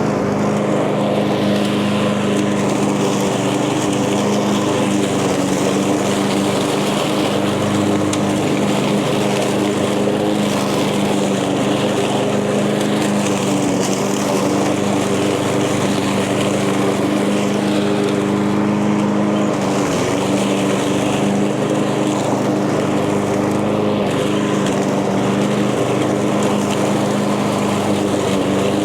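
Echo gas walk-behind lawn mower running steadily at full throttle while cutting tall, thick grass and weeds, with a brief sag in engine speed about two-thirds of the way through as it takes a heavier load.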